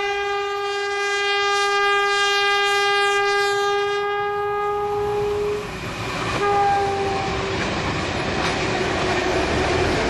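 Diesel locomotive horn sounding one long blast of about five and a half seconds, then a short second blast, as the train passes with a steady rumble and clatter of wheels on rail.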